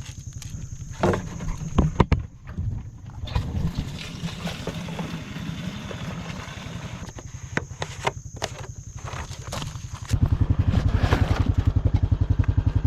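ATV engine running with a low, rapid, even pulse, with scattered knocks and clunks; the engine gets louder about ten seconds in.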